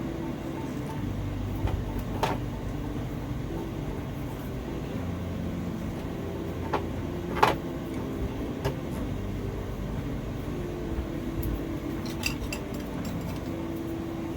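Occasional light clicks and taps of craft materials and a glue gun being handled on a work surface, the loudest about seven and a half seconds in and a quick cluster near the end, over a steady low hum.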